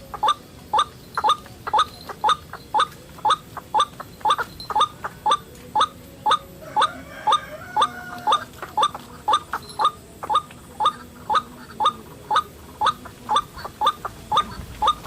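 White-breasted waterhen calling: short, slightly falling croaks repeated about twice a second without a break. Around the middle a fainter, different tonal sound briefly overlaps.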